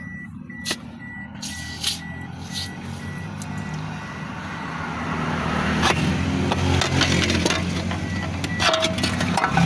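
A car's warning chime beeping over and over, with a steady low mechanical hum beneath it that grows louder about halfway through, and a few sharp clicks.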